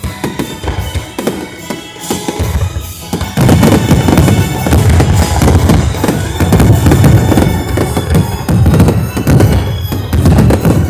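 Fireworks going off in rapid succession, with a steady run of bangs and crackles that gets heavier and louder about three seconds in. Music plays along underneath.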